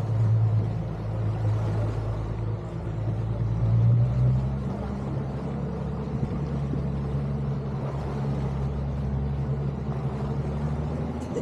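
Outboard motor of an inflatable boat running steadily, with a constant hiss under its low hum. About four and a half seconds in, its note changes and it runs a little quieter.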